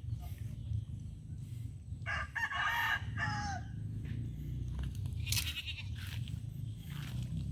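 A rooster crows about two seconds in, one call of about a second and a half that drops in pitch at its end. A shorter, higher, quavering animal call follows about five seconds in, over a steady low rumble and a few light clicks.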